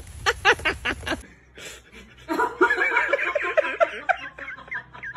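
A person laughing in a quick run of short snickering pulses, beginning a little after two seconds in and lasting about two seconds. A few short, sharp sounds come before it.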